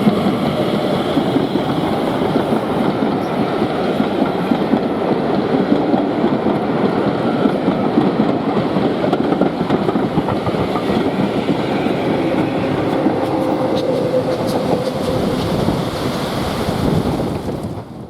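Steam-hauled train passing at close range, its wheels clattering over the rail joints, loud throughout. It cuts off suddenly at the end.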